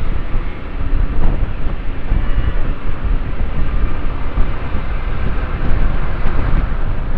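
A motorcycle riding at speed: a steady low rumble of wind buffeting the rider's microphone over engine and road noise.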